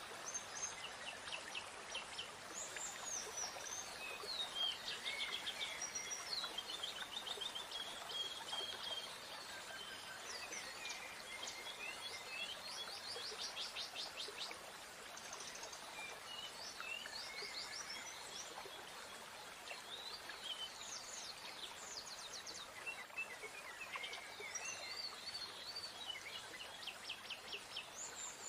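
Several songbirds singing and calling, with many short chirps and quick trills, over a soft steady hiss of outdoor background noise.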